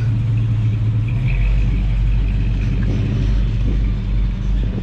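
Car engine running at low speed with a steady low rumble, which turns deeper about a second in.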